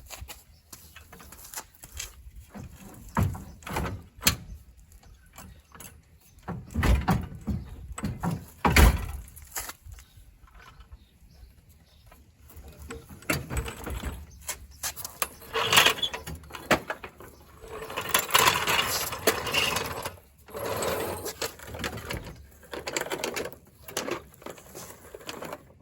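Irregular clunks, knocks and scraping of hand work on a VW bus engine as it is detached and lowered out, with a longer stretch of scraping and rattling in the second half.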